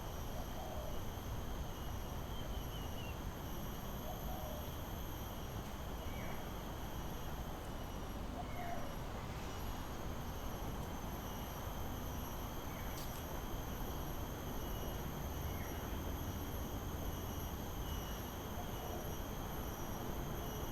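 Steady insect trilling, with a bird giving short falling calls every few seconds over a low rumble.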